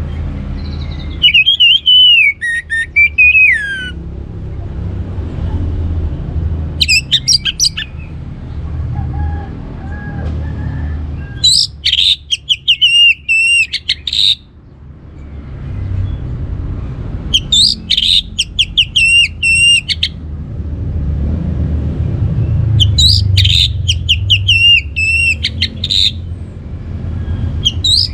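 Orange-headed thrush singing in repeated phrases of fast, gliding notes, one phrase about every five seconds, over a steady low rumble.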